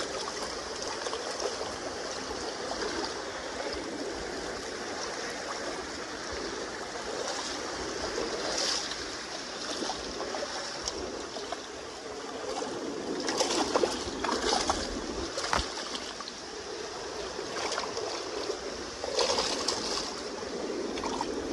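Kenai River water flowing and lapping at the bank, a steady rush, with a few brief louder sounds scattered through it.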